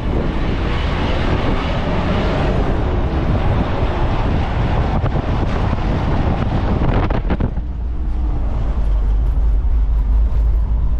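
A moving vehicle's engine and road rumble with wind buffeting the microphone. The loud windy hiss falls away about seven and a half seconds in, leaving the low rumble.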